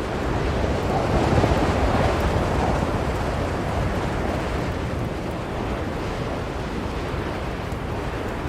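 Blizzard wind blowing steadily. It swells into a louder gust about a second in, then eases back to a steady level.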